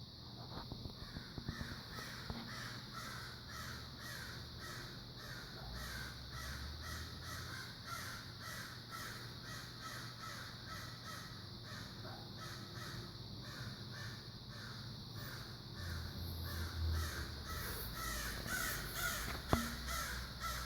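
A fox calling: a long run of short, hoarse calls repeated evenly and quickly, growing a little louder near the end.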